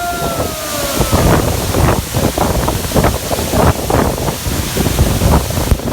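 Waterfall roar with wind buffeting the microphone in uneven gusts. A long held call with overtones trails off and fades about a second in.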